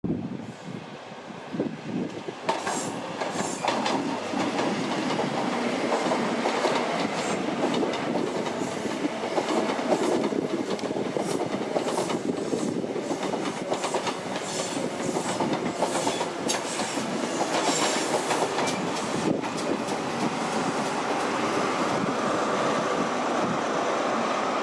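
A train running past on the rails, its wheels clicking and clacking over the rail joints, with repeated sharp clicks over a steady rumble throughout.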